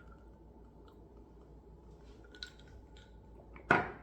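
A few faint clicks, then one short, sharp knock near the end, over a low steady hum: kitchen handling noise as things are set down for chopping a cabbage.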